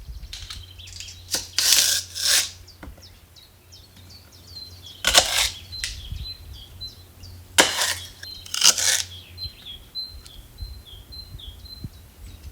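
Birds chirping in short, repeated calls, with several loud bursts of noise about two, five, eight and nine seconds in, over a steady low hum.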